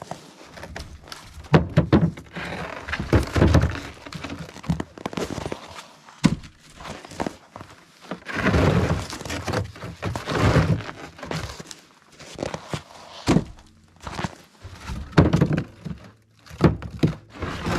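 Firewood logs being unloaded and tossed onto a pile: irregular heavy thunks of wood hitting wood, with longer scraping stretches as logs are dragged and slid.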